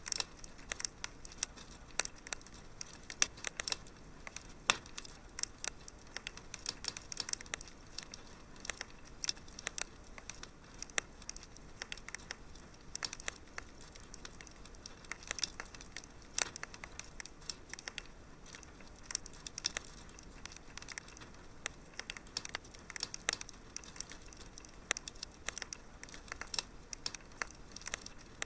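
Wood fire crackling in a fireplace: a steady stream of irregular small pops and snaps over a faint low hiss.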